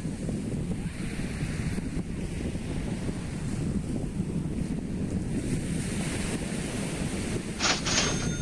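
Wind buffeting the microphone over the steady wash of sea surf, with two sharp clicks close together near the end.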